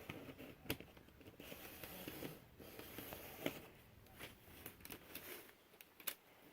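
N scale Life-Like GP18 model diesel locomotive running on sectional track: a faint whir, with a few sharp clicks spread through it.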